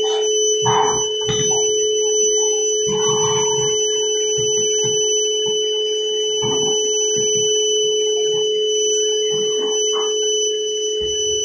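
Vacuum cleaner running with a steady, loud whine, with irregular short rattles and scrapes as dirt is sucked up off a subfloor.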